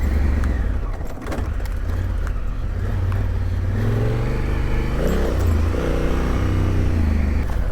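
Large adventure motorcycle's engine under load on a rough off-road climb, the revs dropping briefly about a second in, then rising and falling again as the throttle is worked.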